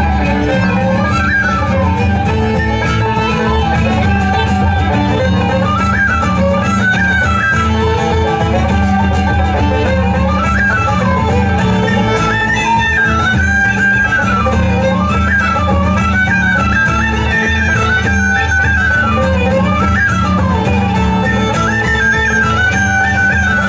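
A live band playing a traditional instrumental tune: a fiddle carries a quick, winding melody over guitar accompaniment and a steady low bass.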